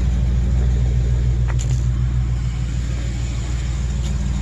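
2008 Chevrolet Express van's engine idling steadily, a low even rumble, with a faint click about a second and a half in.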